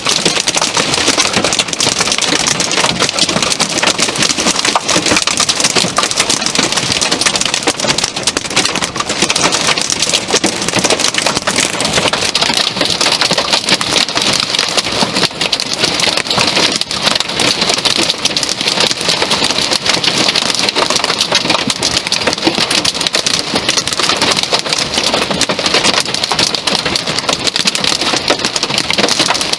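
Heavy, torrential rain pouring steadily in a severe thunderstorm: a dense, unbroken patter of drops.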